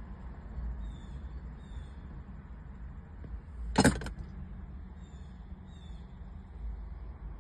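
A blue jay gives one short, harsh call about four seconds in, over a steady low rumble. Faint high chirps sound now and then.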